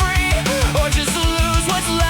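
Loud rock music with a fast, driving drum beat under pitched melodic lines that bend in pitch.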